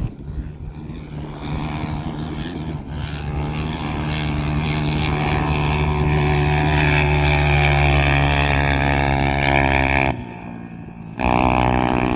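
Motorcycle engine running loud and steady, building over the first few seconds and then holding. It cuts off about ten seconds in, followed by a short burst of revving about a second later.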